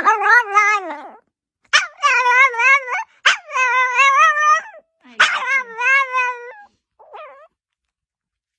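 Dog howling in a run of long, wavering, yodel-like calls: four in a row, then a short faint one.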